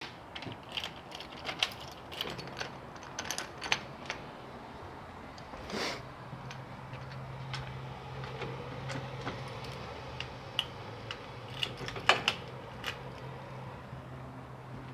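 Scattered small clicks and knocks with a faint steady low hum underneath; no engine is running.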